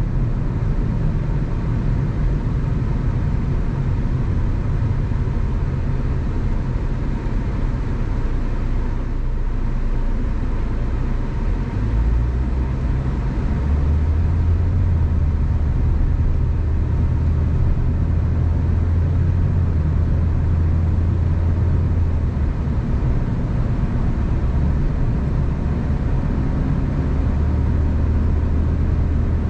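A car driving at road speed: steady tyre and engine rumble with road noise, no speech. The low rumble deepens and grows stronger about halfway through and holds for most of the rest.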